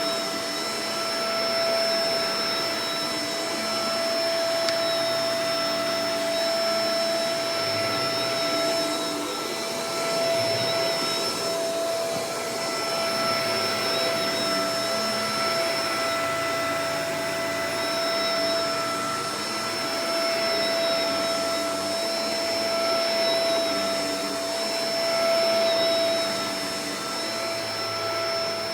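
Shark Professional Powered Lift-Away DLX (NV586) upright vacuum cleaner running steadily, its motor whine carrying a few steady high tones over the rush of air, the level swelling and easing slightly.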